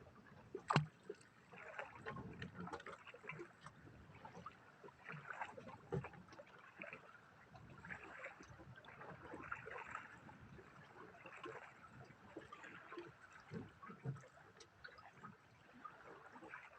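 Water lapping and sloshing against the hull of a small boat, with a single sharp knock a little under a second in.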